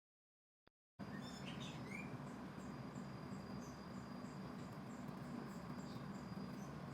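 Faint outdoor ambience starting suddenly about a second in: a few bird chirps and evenly repeated insect chirping, with a thin steady high insect drone over a low hum.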